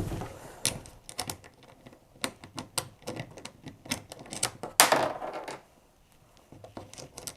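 Irregular sharp clicks and taps of small metal hardware being handled while nuts are put onto bolts to fasten a kayak handle. A louder, longer scrape comes about five seconds in.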